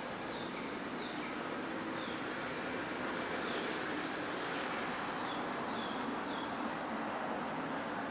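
Insects trilling steadily in a rapid, high-pitched pulse, with a few short falling chirps scattered through it.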